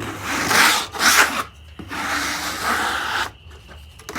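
Sawdust being scraped off the face of a freshly sawn walnut slab, in three rasping strokes across the wood, the third the longest.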